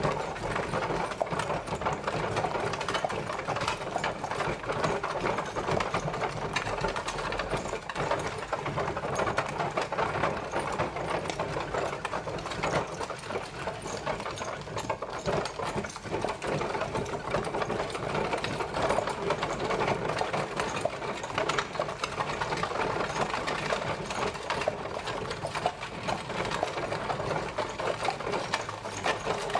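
Horse-drawn carriage travelling: a steady, dense rattle and clatter of the wheels and wooden body.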